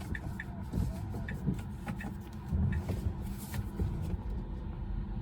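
Low, steady vehicle rumble heard inside a car's cabin on a rain-wet road, swelling briefly about halfway through, with scattered faint ticks.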